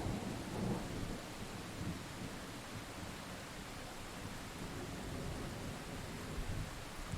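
Steady rain hiss with a low rumble of thunder that is strongest in the first second and dies away, then swells faintly again near the end.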